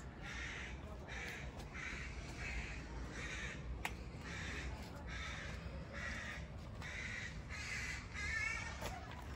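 Birds giving harsh, cawing calls over and over, about two a second. A single sharp click sounds about four seconds in.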